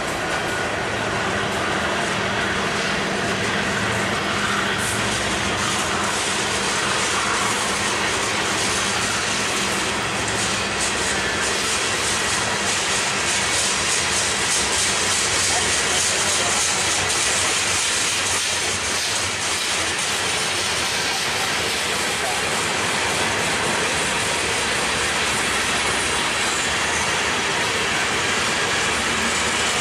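Freight train's covered hoppers, coil cars and tank cars rolling past at close range: a steady noise of steel wheels on rail.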